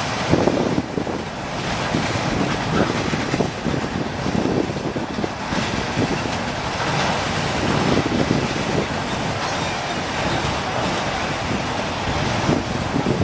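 A train rolling past close by, a steady rumble and rattle of wheels on rail, with wind buffeting the microphone.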